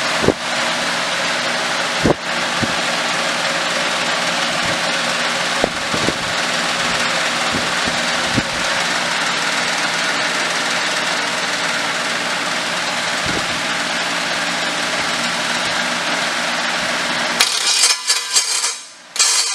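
Freshly built 385-cubic-inch engine on an engine stand running at a steady idle during its first start-up, with a few sharp cracks from the exhaust. Near the end its sound drops away.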